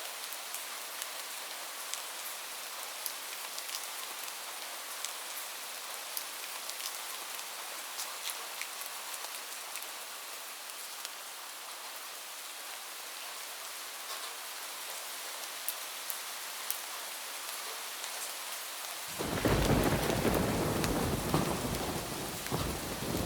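Heavy rain falling steadily on a roof, with single drops ticking through the hiss. Near the end a loud, deep rumble of thunder breaks in suddenly and rolls on.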